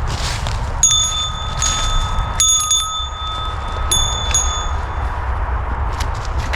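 A small metal bell ringing, struck about six times in uneven strokes, with a quick cluster about two and a half seconds in.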